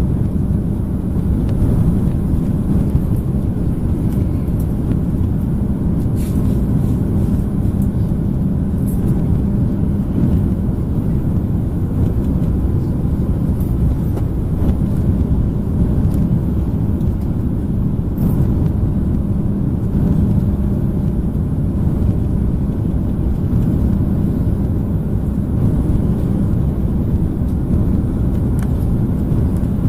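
Steady cabin noise inside an Airbus A330-300: a low drone of engines and airflow with a constant hum.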